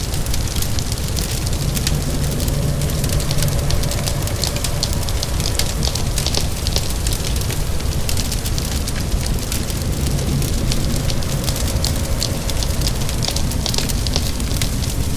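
Fire crackling, with many quick, irregular pops and snaps over a steady low rumble, mixed with the even hiss of falling rain.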